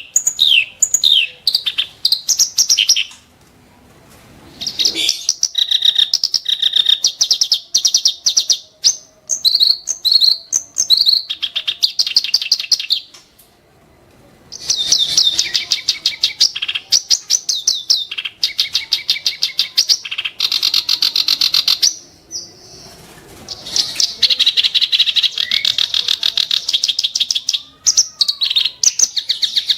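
A kerak basi reed warbler singing in long, loud strophes of rapid, harsh repeated notes. The bursts last several seconds each and are broken by three short pauses.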